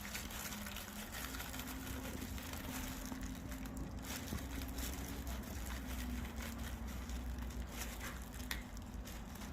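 Pepper grinder being twisted, a faint, fine crackle of peppercorns being ground, over a steady low hum.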